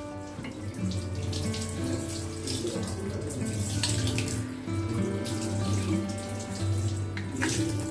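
Kitchen tap running and splashing as a chopping board is rinsed under it, with soft background music.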